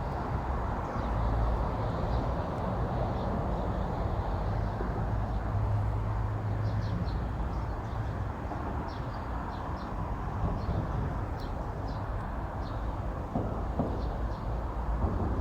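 Steady low rumble of traffic crossing the bridge overhead, with a few faint bird chirps around the middle.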